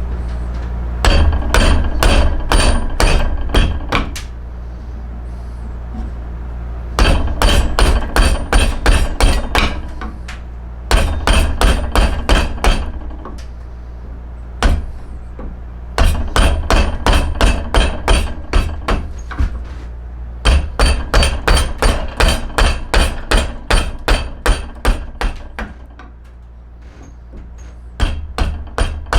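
Hammer blows struck in quick runs of about four a second, each run lasting a few seconds before a short pause, with a hard, slightly ringing edge to each strike. This is hand-tool work on a yew bow stave.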